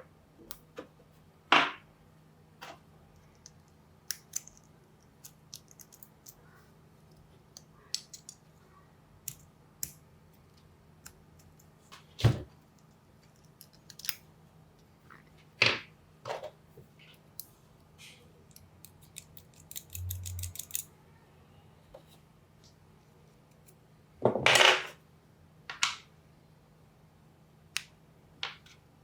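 Scattered clicks, knocks and metallic clinks of small tool parts being handled and set down on a workbench, with a few louder knocks and a short buzzing rattle about two-thirds of the way in.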